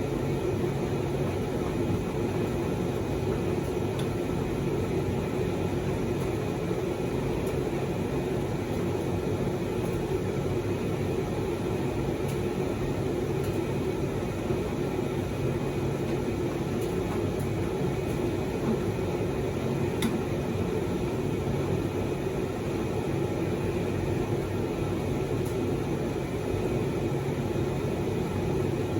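Proline TDV60 vented tumble dryer running on high heat with dust sheets tumbling in the drum, testing a newly fitted drive belt: a steady mechanical hum with a couple of faint ticks.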